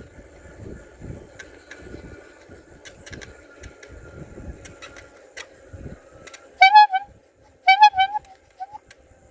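A horn tooting twice in short, loud notes with a slight waver, the second toot followed by a faint short blip, over low wind rumble on the microphone.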